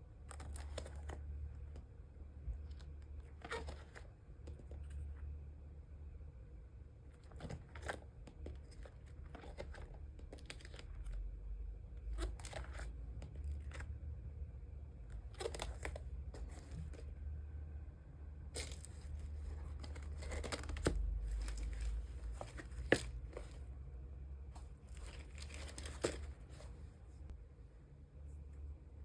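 Plastic card sleeves and packaging being handled: repeated short crinkling and tearing rustles, with two sharp clicks in the second half, over a low steady hum.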